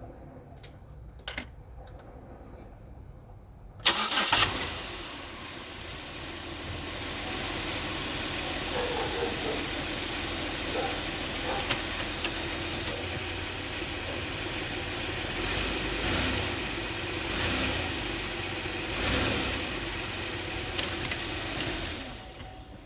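2006 Buick Lucerne CX's 3.8-litre V6 starting with a loud burst about four seconds in, after a few faint clicks. It then runs at idle with a few brief swells and is shut off near the end, on a car presented as showing signs of bad motor mounts.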